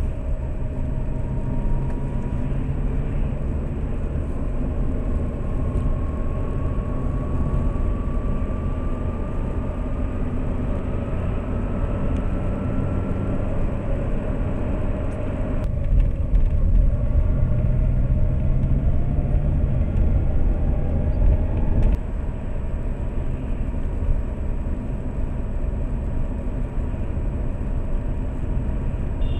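Lada Priora driving, its engine and road rumble heard from inside the car. A faint whine rises slowly in pitch twice as the car gathers speed, and the noise is louder for several seconds past the middle.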